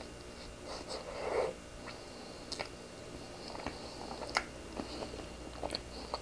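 Close-up mouth sounds of a person chewing a soft cream-filled bun (strawberry-banana cream with strawberry jam): small wet clicks and smacks, with a louder soft squish about a second in.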